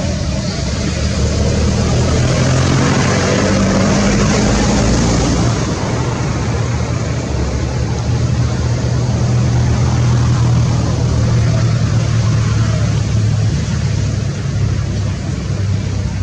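A motor vehicle's engine running steadily with a low hum, under a continuous wash of road noise.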